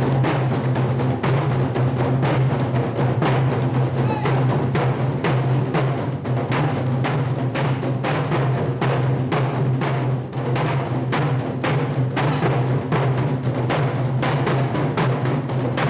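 A Korean percussion ensemble drumming in a fast, steady rhythm, many drums struck together over a sustained low tone.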